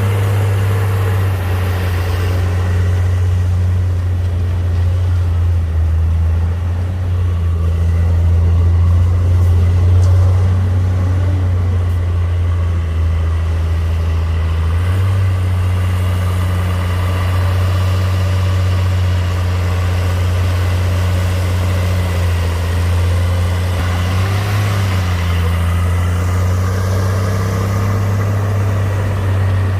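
Diesel engine of heavy earthmoving machinery running steadily, with brief shifts in engine pitch about eleven and twenty-four seconds in.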